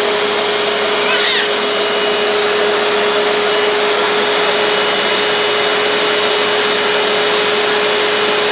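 Vacuum cleaner running steadily, a continuous loud whir with a steady hum underneath. About a second in there is a brief rising squeak.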